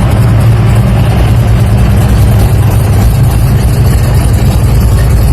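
Car engine idling with a steady, deep rumble, very loud and close.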